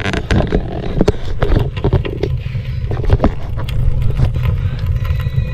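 Steady low rumble of strong wind on the microphone, with many sharp knocks, scrapes and clatter of handling as the tent's wood stove is being lit.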